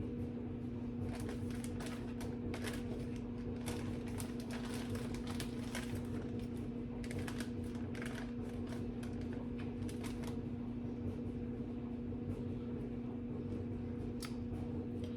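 Irregular light clicks and taps of food preparation and utensil handling at a kitchen counter, over a steady low hum.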